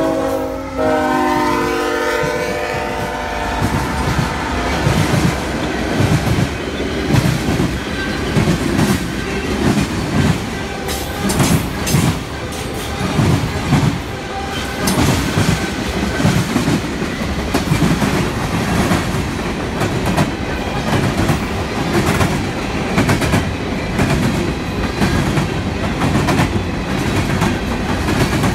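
Freight train passing close by. The locomotive horn sounds as the engines go past, dropping in pitch and fading out about three seconds in. After that comes the steady rumble and clickety-clack of freight cars' wheels rolling over the rail joints.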